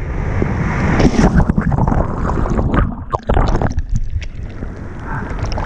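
Ocean surf churning and splashing close around a GoPro in the water, with wind rumbling on the microphone and irregular crackling splashes throughout.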